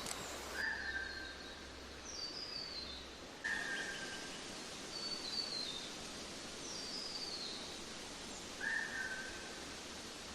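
Songbirds calling over a steady outdoor hiss: a short, slightly falling note repeated three times, and several quick runs of higher notes stepping downward.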